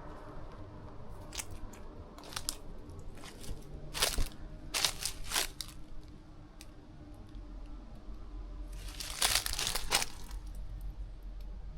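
Footsteps crunching unevenly over rough ground, a few scattered steps and then a louder cluster near the end.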